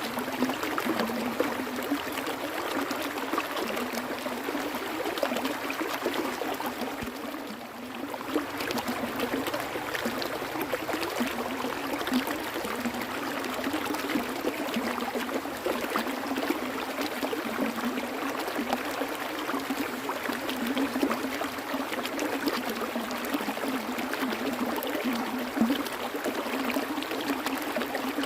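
Flowing water running steadily, a continuous rush flecked with small splashes and gurgles; it eases briefly about seven seconds in.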